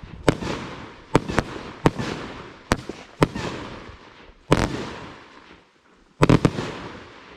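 Loud aerial fireworks from a consumer firework named Airborne: a series of sharp bangs, each followed by a short crackling fall-off. A heavier blast comes about four and a half seconds in, and a tight cluster of bangs near the end.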